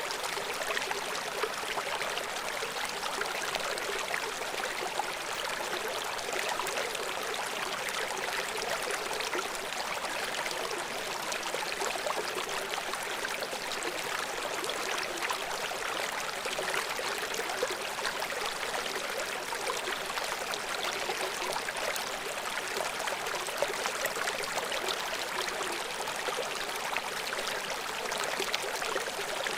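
River water flowing over rocks from a small waterfall, a steady rushing and splashing without pause.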